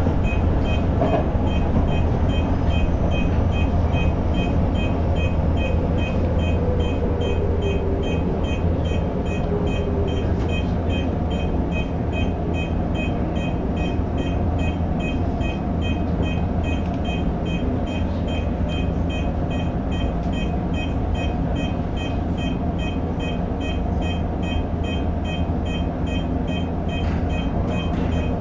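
Toyo Rapid Railway 2000 series electric train heard from the driver's cab: a steady low rumble of the train running on the track, with an even, rapid high-pitched ticking over it.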